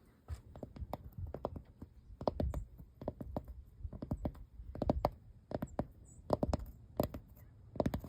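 Light tapping on the surface of an old building: irregular sharp taps, often in quick clusters, with short pauses between.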